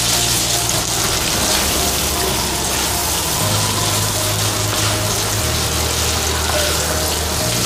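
Pork pieces and green peas frying in oil in a kadai, a steady sizzle as they are stirred with a wooden spatula.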